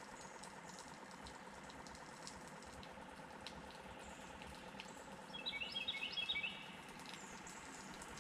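A songbird sings a quick jumbled run of high notes lasting about a second, starting about five seconds in. Faint high chirps and ticks come and go against a quiet outdoor background.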